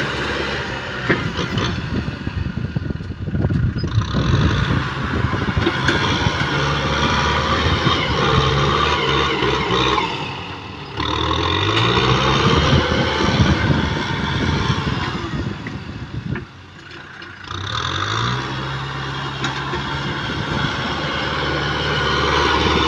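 Kubota M6040 tractor's diesel engine running loud and steady, twice dropping in revs for about a second and then climbing back up in pitch.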